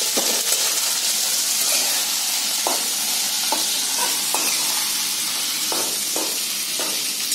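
Drumstick pods with onion and toor dal frying in hot oil in a metal kadhai: a steady sizzle, with a metal spatula scraping and knocking against the pan several times as it stirs.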